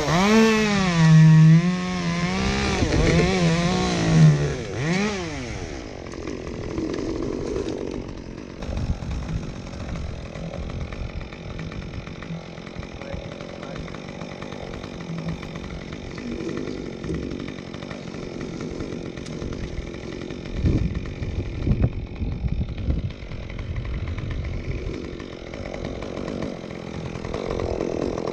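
Chainsaw cutting into elm wood at full throttle for about five seconds, its engine pitch dipping and recovering as the chain bogs under load. It then drops to a lower, rougher running sound, with a few sharp knocks about two-thirds of the way through.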